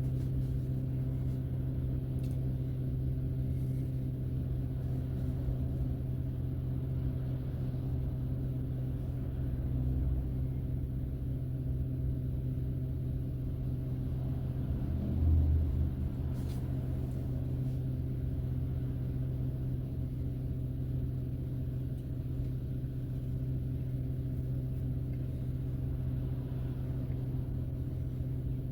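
Steady low drone of a car cabin while driving, with a constant hum that does not change pitch. About halfway through there is one brief, louder low thump, like a tyre going over a bump.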